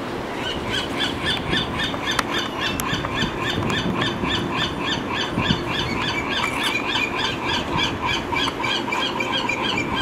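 A bird calling over and over, short high squealing notes at about three a second.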